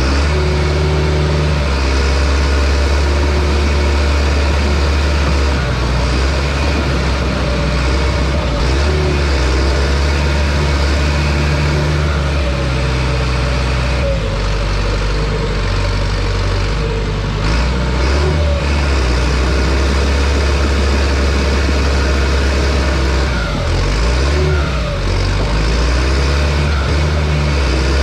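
John Deere bulldozer's diesel engine running under working load, its pitch and loudness stepping up and down as the load changes, with faint squeals over it.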